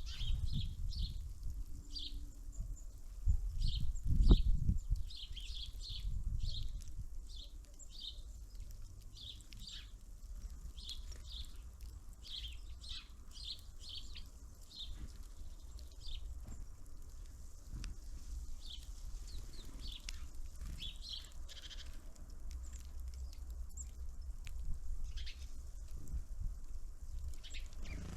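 Small songbirds at a winter bird feeder calling, many short high chirps in quick, irregular succession, over a steady low rumble, with a louder low thump about four seconds in.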